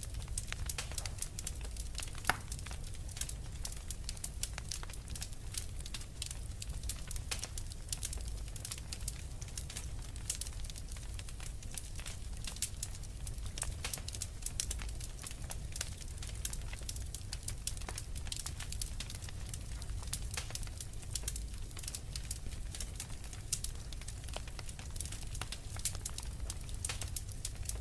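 Wood fire burning in a fireplace: a dense, irregular run of small sharp crackles and pops over a low steady rumble.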